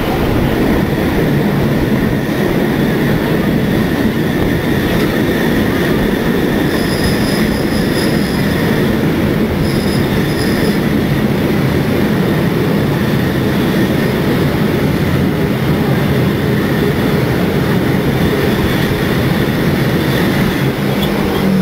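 Train carriage rolling along the track, heard through an open window: a steady loud rumble and rush. A high squeal rises over it for about two seconds some seven seconds in, and briefly again about ten seconds in.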